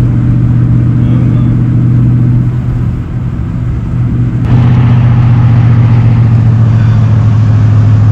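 A car engine and road noise in a steady low drone while driving. It eases off slightly, then steps up suddenly louder about halfway through.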